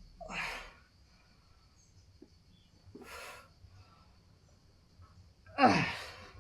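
A man's forceful breaths out with the effort of dumbbell chest press reps: three of them a few seconds apart, the last loudest and ending in a falling grunt.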